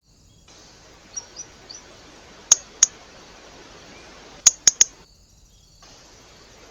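Small birds at a feeder: a few faint high chirps, then sharp short clicks, two about a third of a second apart and later three in quick succession, over a steady hiss.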